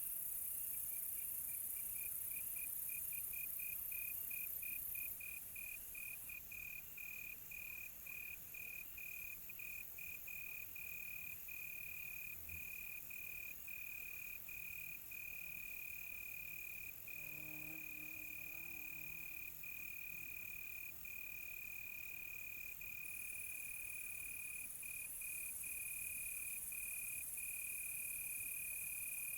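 Crickets chirping: one steady high-pitched trill, broken into rapid pulses at first and running almost unbroken later, over a high hiss of other night insects. A faint low call sounds briefly about halfway through.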